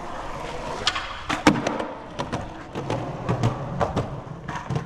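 Skateboard rolling on concrete, with a run of sharp clacks and knocks from the board, the loudest about a second and a half in.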